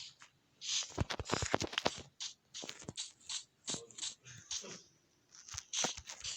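Irregular rustling and crinkling handling noise broken by many short sharp clicks, in quick uneven bursts with brief pauses.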